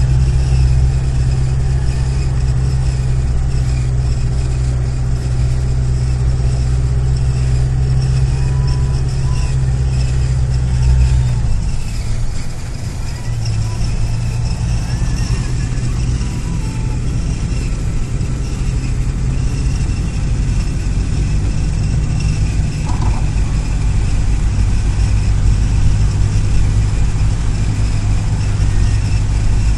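Land Rover engine idling steadily, heard from inside the vehicle. About twelve seconds in the engine note changes and wavers briefly, then settles into a steady idle again.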